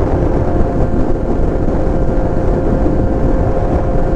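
Kawasaki Z900's inline-four engine running at a steady cruise under light throttle, with a constant engine hum over wind and road rush.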